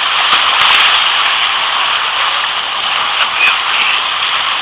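Steady rush of a whitewater river flowing close by.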